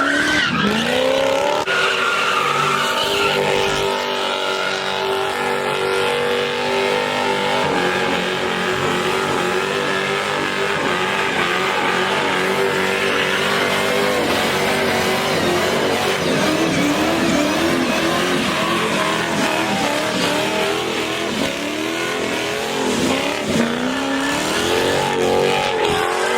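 A car drifting with its engine revving hard and its tyres squealing and skidding. The revs are held steady for several seconds, then rise and fall repeatedly.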